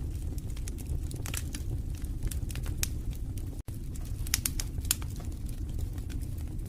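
Wood fire in a fireplace crackling: irregular sharp pops and snaps over a low, steady rumble of burning flames, with a split-second dropout about halfway through.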